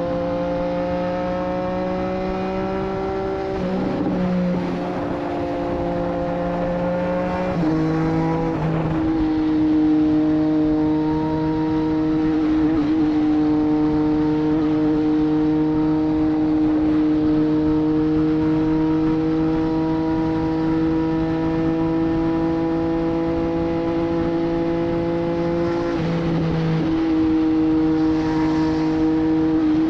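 Triumph Street Triple 765 RS three-cylinder engine breathing through a Racefit Growler full exhaust system, running at steady cruising revs under way. The pitch shifts briefly about 4 and 8 seconds in and again near the end, then settles.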